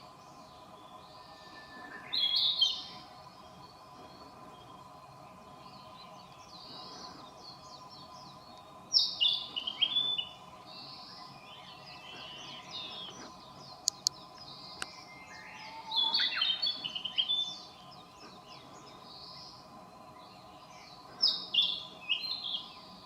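A songbird sings loud, short phrases of high, falling notes, four times about six seconds apart. Other birds call softly in the background, over a steady low hum.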